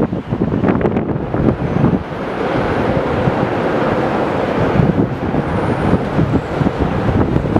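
Wind buffeting the microphone, then from about two seconds in the steady rushing noise of a jet airliner's engines grows and holds as the aircraft passes, with gusts still hitting the microphone.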